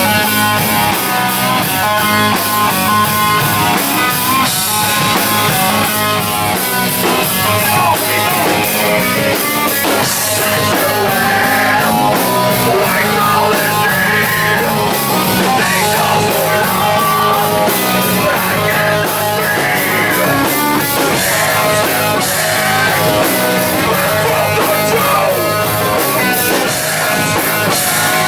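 Live rock band playing loud, with distorted electric guitar and a drum kit.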